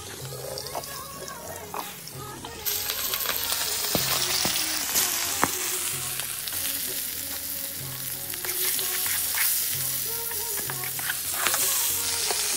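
Insect larvae sizzling hard in hot oil in an iron wok, stirred with a metal spatula that clicks and scrapes against the pan. The sizzle jumps louder about two and a half seconds in and stays loud.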